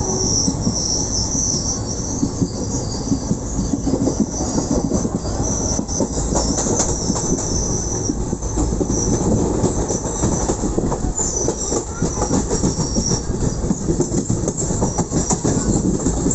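Train running on steel rails: a steady rumble with rapid wheel clatter and a high-pitched squeal of wheels on the track.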